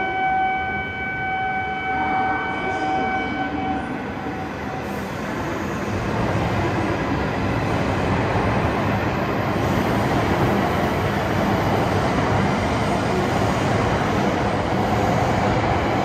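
Shinkansen train running along the platform in the underground station: a steady rushing noise that builds from about six seconds in and holds. A steady high tone sounds over it for the first few seconds, then stops.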